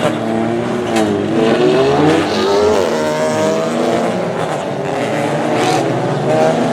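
Several racing touring car engines running together at high revs, their pitches rising and falling and overlapping as the cars accelerate and pass.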